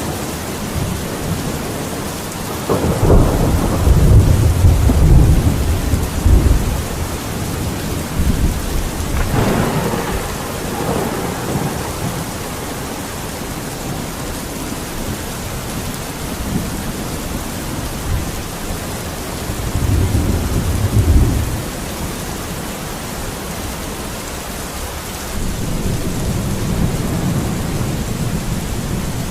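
Steady rain falling, with several deep rolling rumbles swelling and fading. The loudest comes about three to seven seconds in, another shorter one near twenty seconds.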